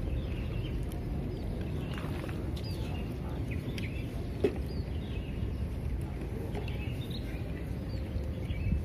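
Small birds chirping, many short calls over a steady low background rumble.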